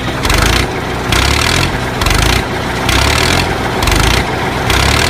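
An engine running loudly in a pulsing rhythm, surging about once every two-thirds of a second.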